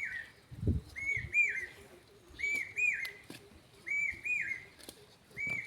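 A bird calls repeatedly, each call a pair of clear arched whistled notes, about once every one and a half seconds. A low thud comes a little under a second in, and a few faint clicks fall in between.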